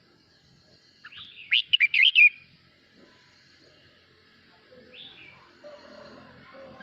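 Male red-whiskered bulbul singing: a short, loud phrase of quick whistled notes about a second in, then one fainter sliding note a few seconds later.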